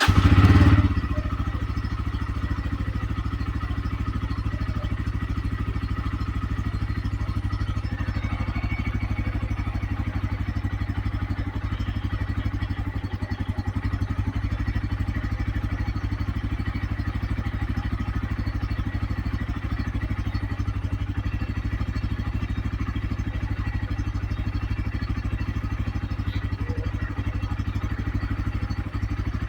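Bajaj Pulsar N160's single-cylinder engine idling steadily with a fast even pulse, a little louder for the first second.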